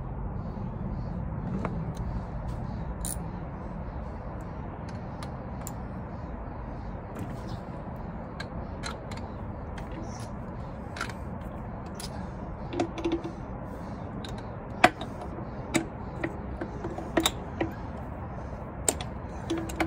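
Hand tools removing spark plugs from a two-stroke outboard motor, with irregular metallic clicks and clinks that come thicker in the second half, over a steady low background hum.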